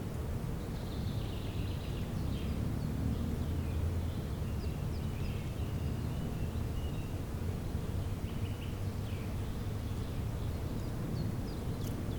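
Small birds chirping and trilling, with short high calls scattered through, over a steady low rumble.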